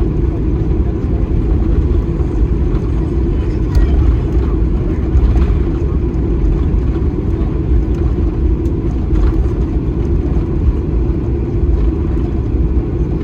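Steady low rumble of a Boeing 737-800's engines and airflow, heard inside the airliner cabin.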